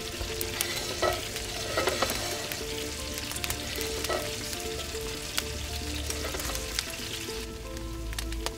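Chicken thighs frying in hot fat in a pan inside a wood-fired oven: a steady sizzle dotted with crackles and spits, as the turned pieces cook through.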